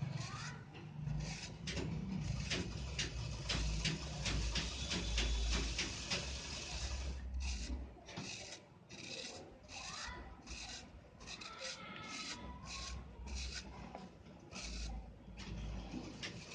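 Moulded red sand shapes being crushed and crumbled, with dense gritty crunching and crackling that thins out after about eight seconds into separate crunches.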